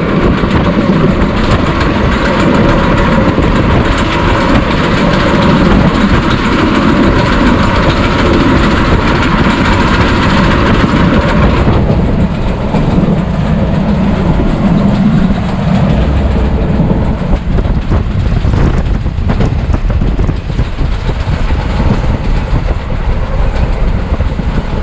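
Ernad Express passenger train (Indian Railways) running at speed: a loud, steady noise of wheels on track, heard from an open coach door. About twelve seconds in the sound turns duller, losing its hiss.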